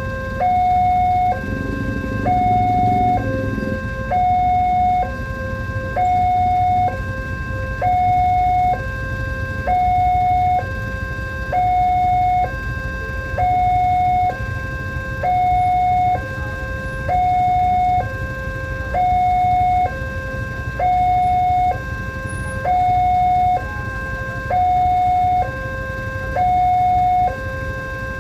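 Railway level-crossing warning alarm sounding its electronic two-tone signal: a higher and a lower tone alternating, each held about a second, repeating steadily.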